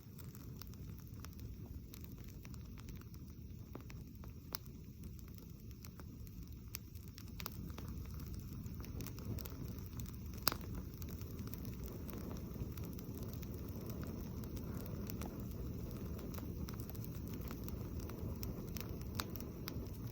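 Wood campfire burning on bare ground, crackling with scattered sharp pops over a steady low rumble, with one louder pop about halfway through.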